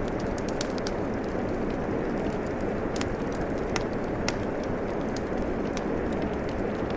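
Steady rain with a wood fire crackling over it: an even wash of rain under scattered sharp pops and snaps from the burning wood.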